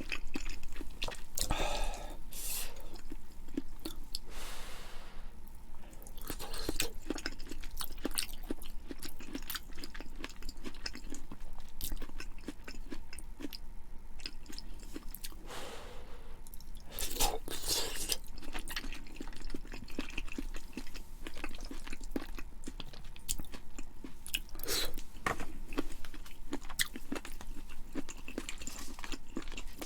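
A person eating close to the microphone: continual chewing with many small wet clicks and crunches, and a few louder mouthfuls.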